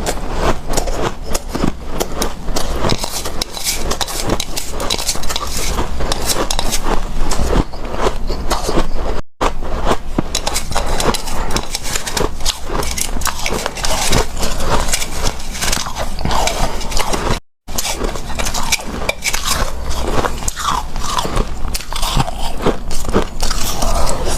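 Close-up crunching of hard, powdery refrozen ice being bitten and chewed: a dense run of crisp crunches and crackles, twice broken by a brief moment of silence.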